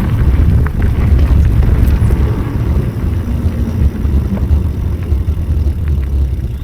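Wind rumbling and buffeting on the microphone of a camera carried on a moving ride along a trail, with a few small clicks and rattles.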